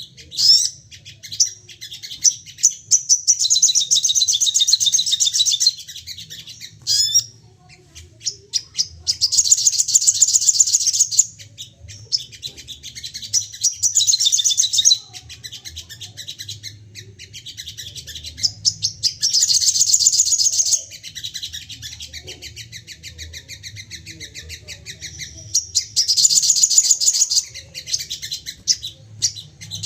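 Sogon songbird singing in rapid-fire, agitated bursts: dense high trilled strings of notes lasting two to three seconds each, five of them, with scattered single chirps in between. A faint low hum sits underneath.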